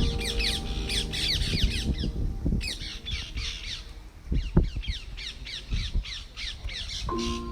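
Outdoor birds calling in a rapid run of short, downward-sliding chirps. The calling breaks off for about a second near the three-second mark, then resumes. A single knock sounds about four and a half seconds in, over a low outdoor rumble.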